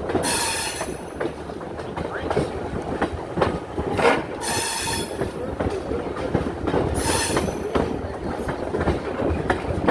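Passenger train rolling along the track: a steady rumble with wheels clicking over rail joints, and brief high-pitched wheel squeals three times.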